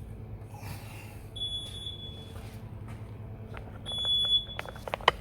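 Car air-conditioning recharge station beeping twice, a high beep of just under a second each time, spaced about two and a half seconds apart, as it prompts the operator to confirm that the service hoses are connected. A few sharp clicks come near the end, over a low steady hum.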